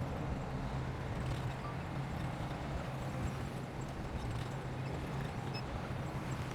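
Heavy-equipment diesel engine running steadily with a low hum, with a faint irregular clatter over it.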